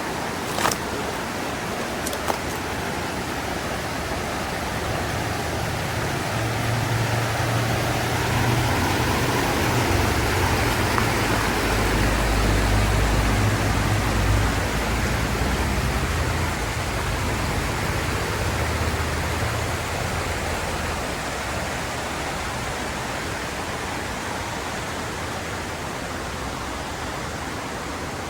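Mountain river's rushing water, a steady hiss. A low rumble swells from about five seconds in and fades out by about twenty seconds, and two sharp clicks come near the start.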